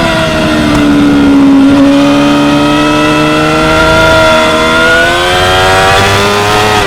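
2016 Yamaha R6's 599 cc inline-four engine at racing revs: the pitch falls off for about two seconds, then climbs steadily under throttle, with a sudden drop in pitch at the very end as it shifts up a gear.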